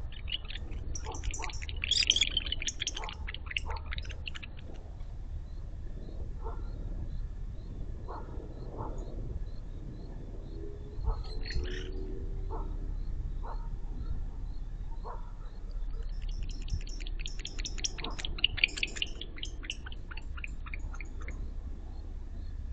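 Barn owl calling in two spells: a rapid rattling series of harsh, high-pitched pulses lasting a few seconds each, one at the start and one near the end. Single knocks are scattered in between, over a steady low rumble.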